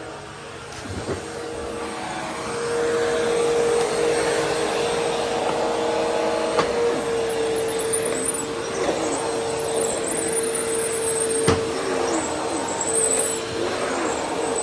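Vacuum cleaner running with a steady motor whine over a broad rush of airflow. It grows louder over the first few seconds, and there is a sharp click about eleven seconds in.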